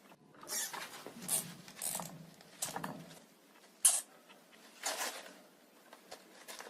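Hamster sounds: a run of short scratchy, rustling bursts, about one a second, with no squeaks.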